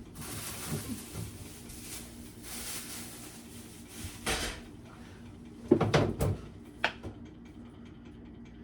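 Items being handled while clearing out a refrigerator: a soft rustling of packaging, then a knock, a cluster of loud knocks and clatters about six seconds in, and a last click.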